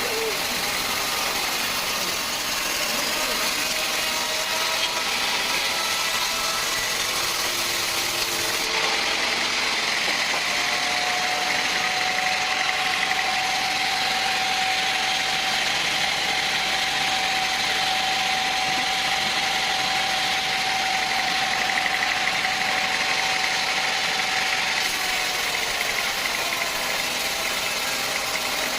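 Sawmill machinery running steadily: a constant engine drone with a steady high whine holding through the middle stretch.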